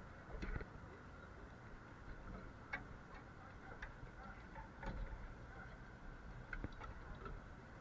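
Faint, irregular light clicks, about seven of them, over a low background rumble.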